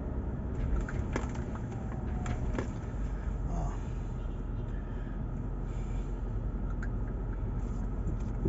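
Steady low rumble of a car's engine and tyres heard from inside the moving car, with a few scattered light clicks in the first few seconds.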